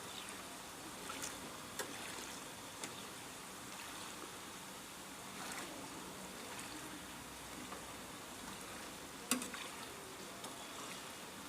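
Hot oil sizzling steadily in a snack fryer, with a few sharp clicks and knocks; the loudest knock comes about nine seconds in.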